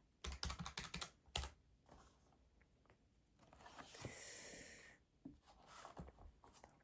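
A quick run of key taps in the first second, then one more tap, like fingers on keys. About three and a half seconds in comes a soft brushing hiss lasting about a second and a half, followed by a few faint taps.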